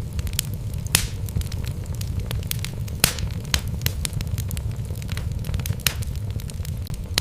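Wood fire burning in a fireplace, with a steady low rumble and irregular sharp crackles and pops from the logs, the loudest about one and three seconds in.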